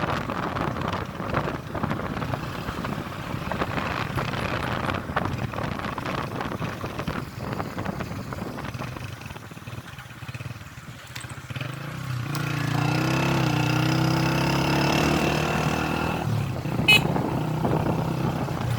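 A road vehicle's engine running under rough wind and road noise. About twelve seconds in, a steadier engine drone comes up and rises slightly for a few seconds. A single sharp click comes near the end.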